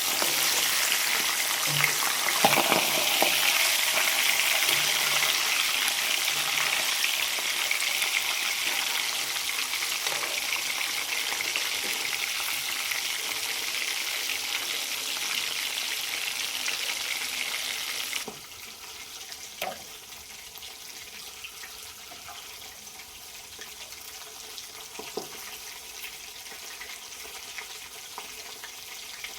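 Food frying in hot oil in a pan, a steady loud sizzle. About 18 seconds in the sizzle stops abruptly, leaving a quieter background with a few light knocks.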